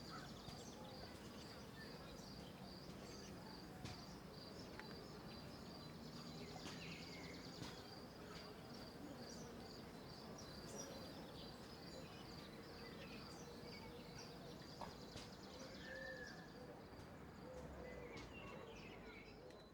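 Faint outdoor ambience: a soft steady hiss with a high chirp repeating about three times a second, and a few scattered bird-like calls.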